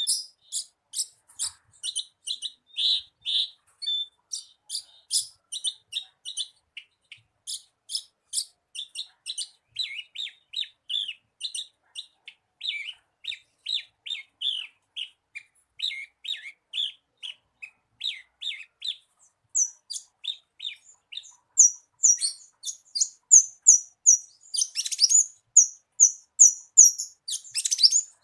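Horsfield's bush lark (branjangan) singing: a long, unbroken run of short, rapid high chirps and trills, several notes a second, which switches to higher, louder notes about two-thirds of the way through.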